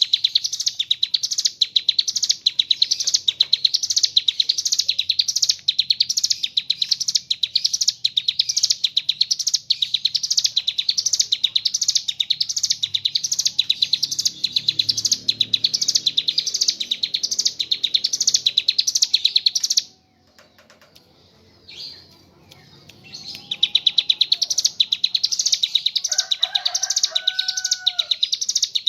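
A bar-winged prinia (ciblek gunung) singing a fast, high, trilling song that repeats about twice a second without pause. It breaks off about two-thirds of the way through for a few seconds, then starts again. A couple of lower whistled notes sound near the end.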